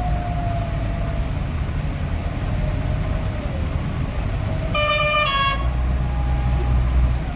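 Hindustan tractor's diesel engine running with a steady low rumble. A vehicle horn sounds once, briefly, about five seconds in.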